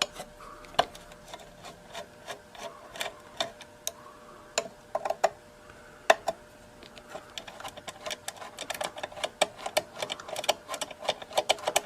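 Small hand tool clicking and scraping against the radio's metal chassis as the transformer's mounting screws are worked loose: irregular sharp clicks and taps, sparse at first and coming much faster for the last few seconds.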